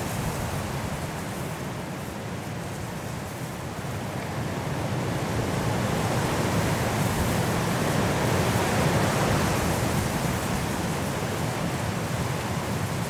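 High wind blowing through forest trees in a mountain snowstorm. It swells into a stronger gust from about four seconds in, peaks past the middle, then eases off.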